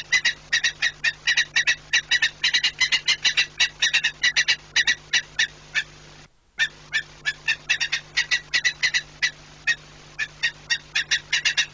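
Falcon giving a rapid, harsh kek-kek-kek call, about five or six short notes a second, with a brief silent gap a little past halfway. A steady low hum runs underneath.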